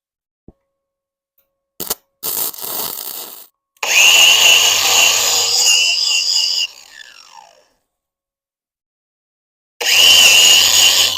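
Angle grinder on steel: after a few short scrapes it spins up with a rising whine, grinds for about three seconds, and winds down with a falling whine once released. A second grinding run starts near the end.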